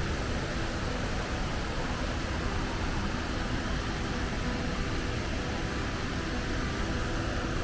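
Steady rushing water, an even unbroken roar.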